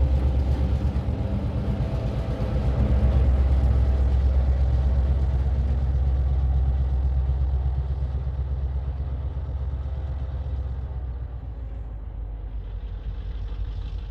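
Train running with a heavy low rumble that fades steadily over the second half as it moves away.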